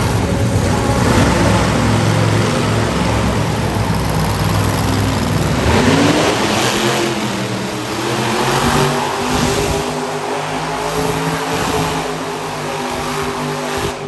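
Monster truck engine running loud and revving, with a rising rev about six seconds in; the sound cuts off suddenly at the end.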